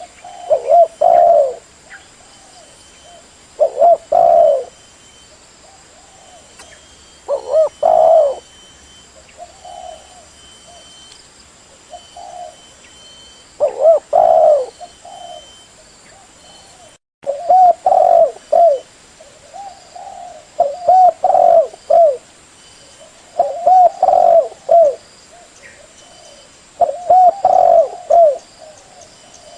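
Spotted dove (tekukur) cooing: short phrases of a few low, hollow coos repeated every few seconds, with a brief dropout to silence near the middle.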